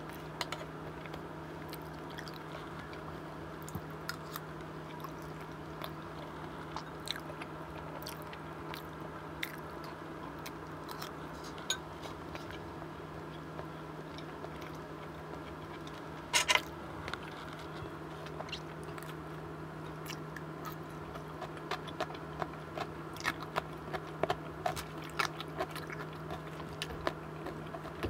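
Close-miked eating sounds: chewing on chicken curry and rice, with small clicks of a spoon and fork against ceramic bowls. A sharper knock comes about sixteen seconds in, and the clicks grow denser near the end as a fork goes into a lettuce salad. A steady low hum runs underneath.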